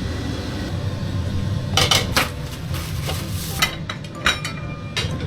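Kitchen dishes and utensils clinking and clattering as they are handled. There are a few sharp knocks about two seconds in and a scatter of lighter clinks toward the end.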